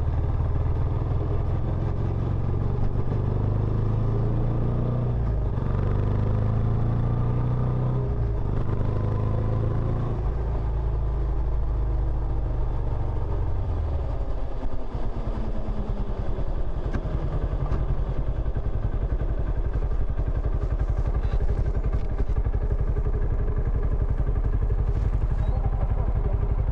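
Benelli Imperiale 400's single-cylinder engine running through its stock exhaust. The pitch rises and falls over the first half, then settles into a steady, lower run.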